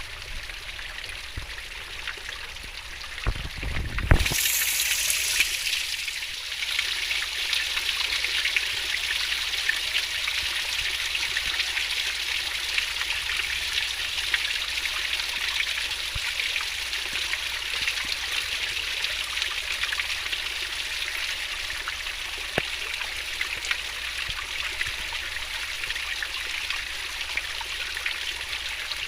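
Fast-flowing stream water rushing steadily. A few dull knocks come about three to four seconds in, after which the water is louder.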